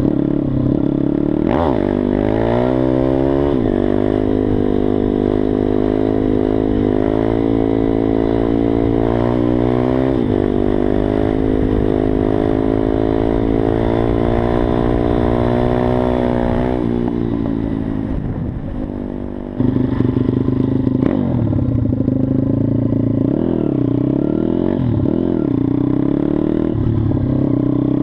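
Mojo KLX 160 SM pit bike's single-cylinder engine revving up through the gears, the pitch climbing and dropping back at each shift, then holding high before falling away as it slows. About two-thirds of the way in the sound changes abruptly, and the revs then rise and fall unevenly.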